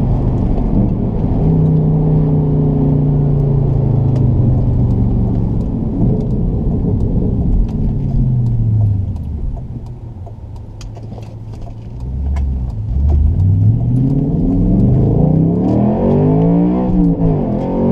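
Audi RS4 B7's 4.2-litre V8 with its rear exhaust mufflers bypassed, holding a steady note, then falling in pitch as the throttle is lifted and going quieter for a couple of seconds. About twelve seconds in it climbs sharply under acceleration. Near the end the pitch drops and climbs again.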